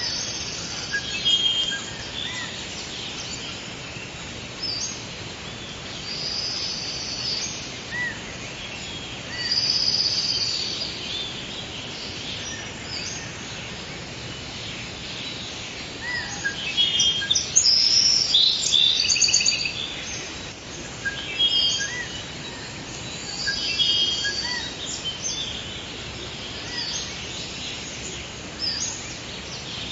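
Forest birds singing and calling, with many short high chirps and trills overlapping over a steady background hiss. The calls come thickest a little past halfway through.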